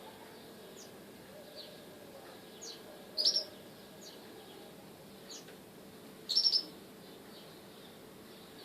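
Small bird chirping: two short clusters of sharp high chirps about three seconds apart, with fainter single chirps between them.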